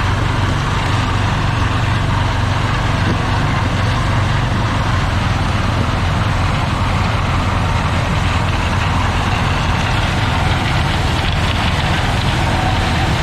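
Claas Lexion 740 combine harvester running steadily: a constant engine drone with a strong low hum.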